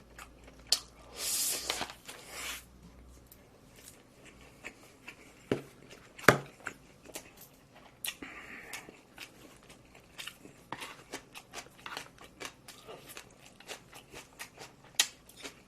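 Close-miked eating of barbecued pork and smoked duck: chewing and mouth sounds with scattered clicks and taps, a brief rustle about a second in and a sharper knock about six seconds in.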